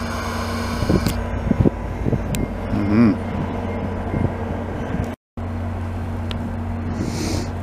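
Passenger train coaches rolling past, a steady low rumble with a few light clicks. The sound drops out briefly about five seconds in, then the steady rumble goes on, with a short hiss near the end.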